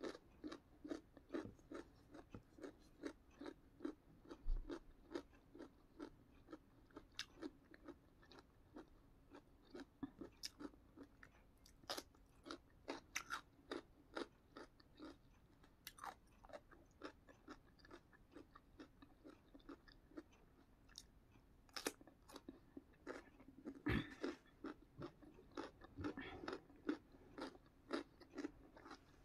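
Close-up chewing of crisp raw salad vegetables: steady crunches about two a second, with a few louder, sharper bites now and then.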